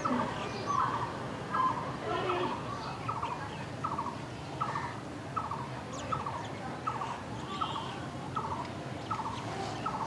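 A bird repeating one short, buzzy call at a steady pace, about four calls every three seconds, while other birds chirp more faintly.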